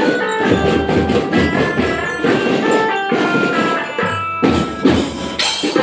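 Marching band playing a tune: held melody notes over steady drum strokes.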